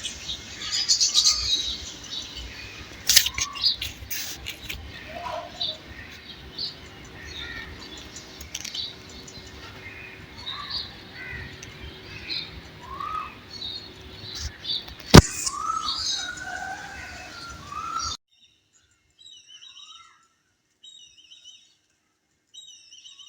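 Small birds chirping and calling, many short rising and falling notes, over a steady background noise. There is one sharp click about fifteen seconds in. The background cuts off suddenly near the end, leaving fainter chirps alone.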